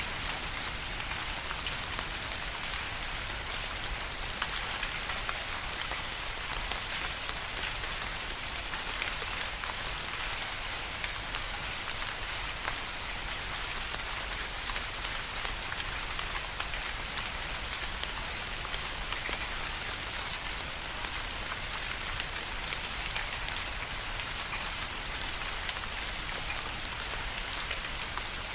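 Steady rain falling, a dense hiss of many small drops with scattered close drop ticks.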